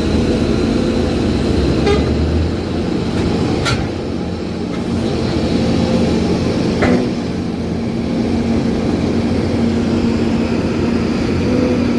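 Heavy truck engine running under load with a steady, even drone, and three sharp knocks about two, four and seven seconds in.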